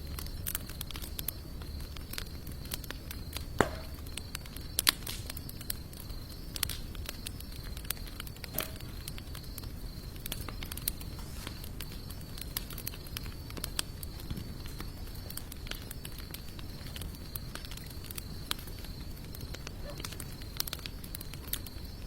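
Wood fire of sawtooth oak and mixed hardwood crackling, with a constant scatter of irregular sharp pops and snaps; two louder pops come a little under four and five seconds in.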